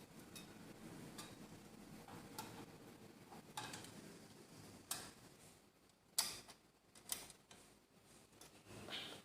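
Scattered light clicks and taps of small hard parts being handled, a few sharp ones spaced a second or so apart, with a short scrape near the end, over a faint hum.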